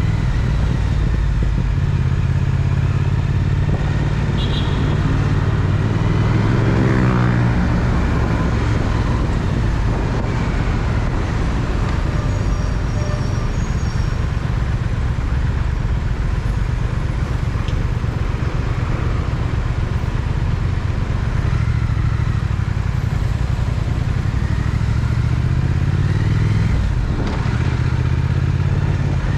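Triumph Speed Twin parallel-twin engine running under way. Its pitch wavers about a quarter of the way through and climbs again near the end.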